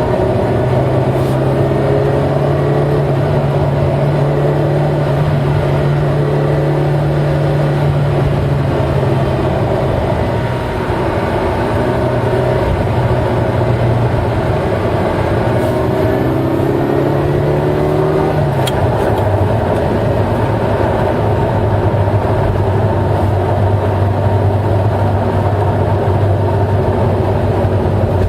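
Eight-cylinder car engine running steadily while driving; its note creeps slightly higher, then drops abruptly to a lower, steady pitch about eighteen seconds in.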